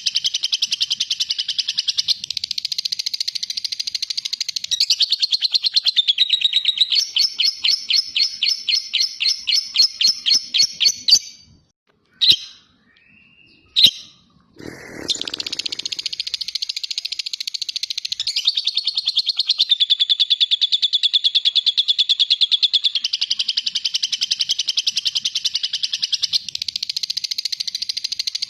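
Lovebird singing its long, fast, high chattering song (ngekek). Partway through it slows into a run of separate quick notes, about five a second. It then breaks off for a few seconds, with a couple of clicks and a short low rustle, before the long chatter resumes.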